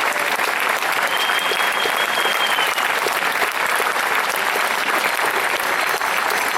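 Audience clapping steadily at the end of a live song. A thin, high whistle sounds over the clapping from about a second in and lasts roughly two seconds.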